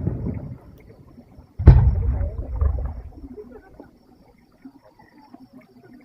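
Firework shell bursting once, about a second and a half in: a sharp bang followed by a low rolling rumble that dies away over about two seconds. At the start the rumble of an earlier burst is fading out.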